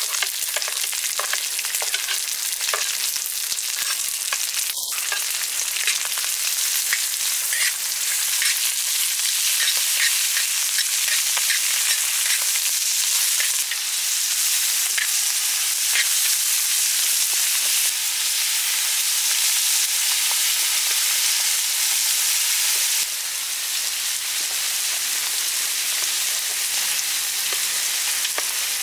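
Sliced sheep organ meat and onions sizzling in a large steel wok over a wood fire, with a spatula scraping and clicking against the pan as it is stirred, most often in the first half.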